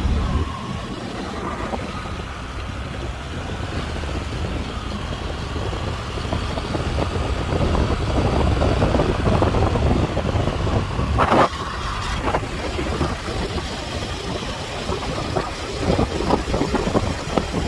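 Motorcycle on the move: the engine runs under a steady rumble of road and wind noise on the microphone, getting louder partway through, with one brief sharp sound about eleven seconds in.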